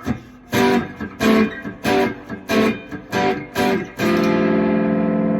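3-string cigar box guitar strummed in a rhythm of short, choppy chords, then a chord left to ring out from about four seconds in.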